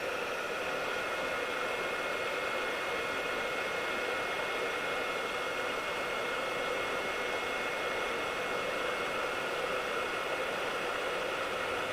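Hot air gun of a soldering station blowing steadily at 200 degrees: an even fan hiss with a faint steady whine over it.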